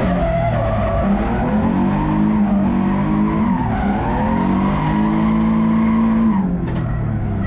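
BMW E46 drift car's inline-six engine held high in the revs during a drift, its pitch rising and falling with the throttle, over tyres squealing and skidding. About six seconds in the revs drop away.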